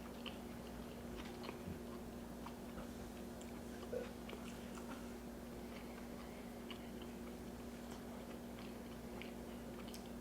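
Close-miked chewing: soft, wet mouth clicks and small crunches of food being eaten, over a faint steady hum.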